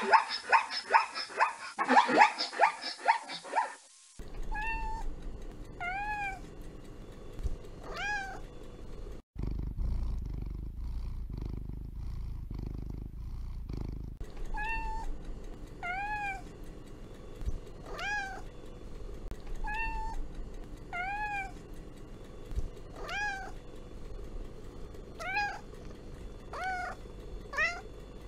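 Domestic cat meowing over and over, short falling meows one to two seconds apart, with a pause of about five seconds near the middle filled by a low, steady rumble of purring. The first four seconds hold a louder, faster run of short sounds of another kind.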